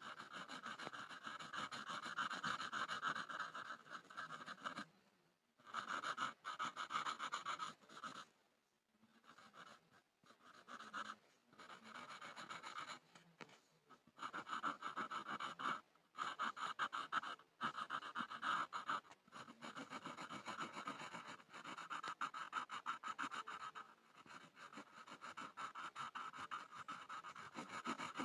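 Pencil scribbling on a board: rapid back-and-forth scratchy strokes, faint, in stretches broken by short pauses, several of them in the middle.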